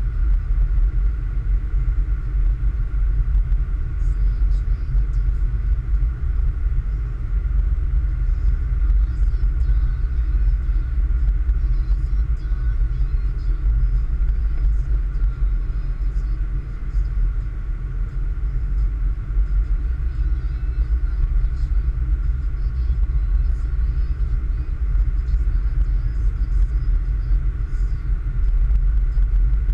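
Car driving at a steady pace, giving a continuous low rumble of engine and road noise.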